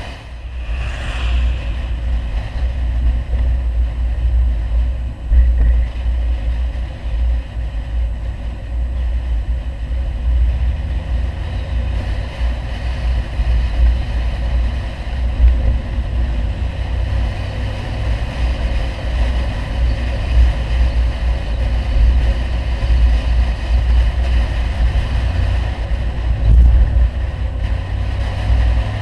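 Audi 100 2.3 quattro's five-cylinder engine with an aftermarket CAC exhaust, running steadily on the move with a deep, continuous low drone.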